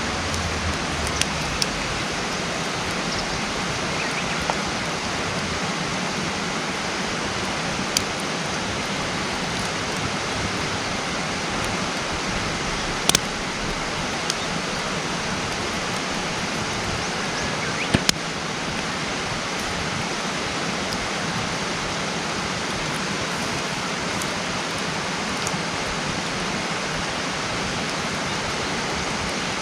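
Wood campfire crackling, with a few sharp pops, the loudest about halfway through and a double pop about two-thirds of the way in, over a steady rushing noise.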